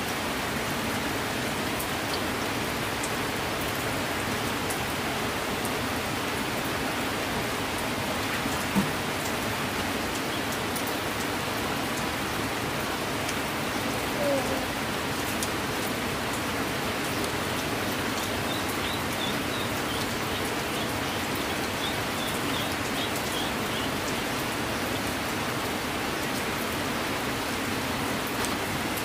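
Steady heavy rain falling on surfaces, an even hiss without a break, with one sharp tap about nine seconds in and a brief knock a few seconds later.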